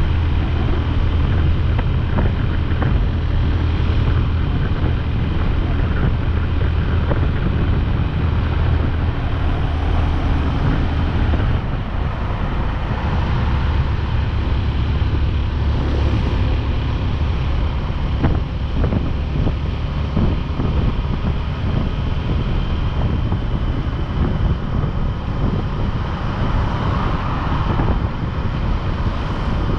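Motorcycle engine running steadily while riding, with wind buffeting the microphone. The engine's low note shifts a little about twelve seconds in.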